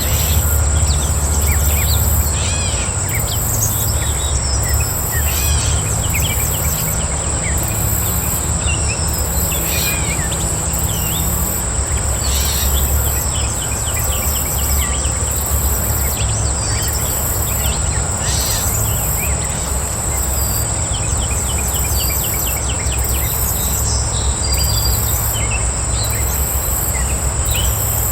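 Outdoor chorus of insects and birds: a steady high-pitched insect trill runs throughout, with a second, higher insect chirp pulsing about once a second, while birds give short scattered chirps and calls. A low steady rumble sits underneath.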